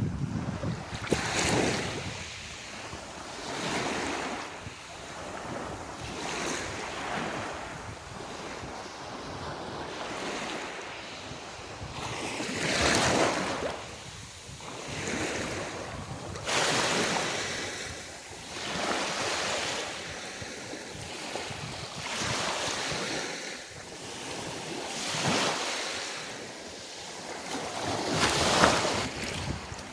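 Sea water washing in small waves, a swell of hiss every two to three seconds, with wind on the microphone.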